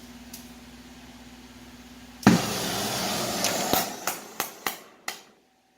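Oxy-acetylene torch lit with a sudden whoosh about two seconds in, hissing, then giving several sharp pops as it dies down: popping from a dirty torch tip.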